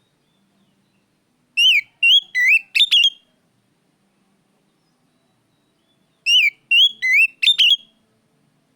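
Oriental magpie-robin (kacer) singing: two matching short phrases of four or five loud, sweeping whistled notes, a few seconds apart. This is a lure song (pancingan) meant to set other kacer singing.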